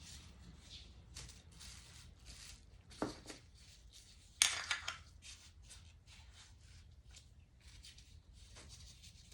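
Small engine clutch parts being handled on a work surface: soft rustling and scraping, a knock about three seconds in, and a louder clatter about four and a half seconds in.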